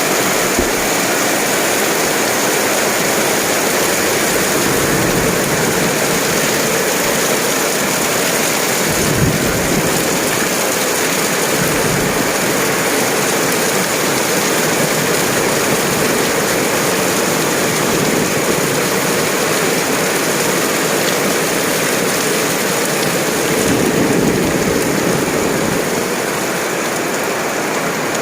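Heavy rain falling steadily, a loud even hiss, with a few brief low rumbles.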